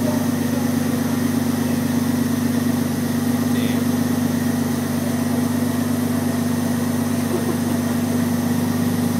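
R33 Nissan Skyline's engine idling steadily, a constant low hum that neither rises nor falls.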